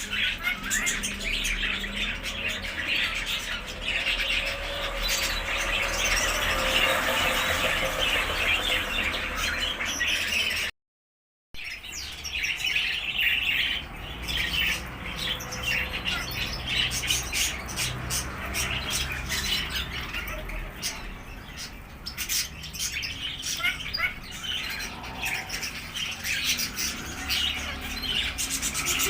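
Many birds chirping and squawking in a busy, continuous chatter, broken by a brief gap of silence about eleven seconds in.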